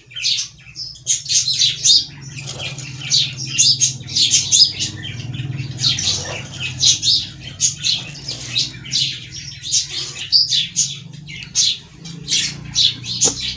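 Small birds chirping busily and continuously, many quick high chirps overlapping, over a steady low hum.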